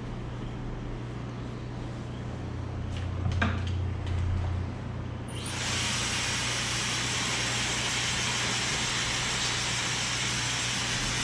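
A blower such as a hair dryer switches on about five seconds in and runs with a steady rush of air. Before it come a low hum and a few light handling clicks.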